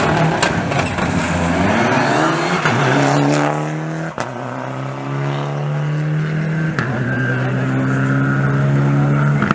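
Rally car engine revving hard as the car launches and accelerates away, its pitch climbing. A sharp crack comes about four seconds in at a gear change, and the engine note then holds steady, with another change near seven seconds.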